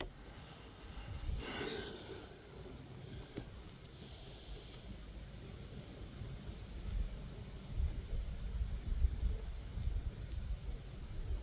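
Outdoor ambience: wind rumbling on the microphone under a steady high-pitched hum, with a brief rustle about a second and a half in.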